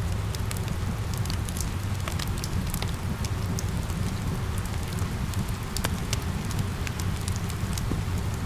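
Steady rain falling over a low rumble, with a wood fire crackling: many small sharp pops and snaps scattered throughout.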